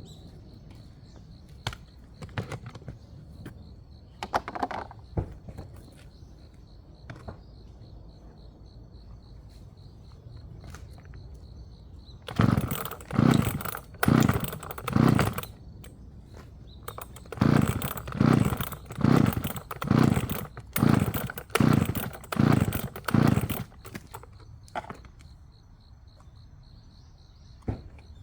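Firewood being sawn by hand, in steady back-and-forth strokes: a run of four strokes about halfway in, then after a short pause a run of about ten quicker strokes.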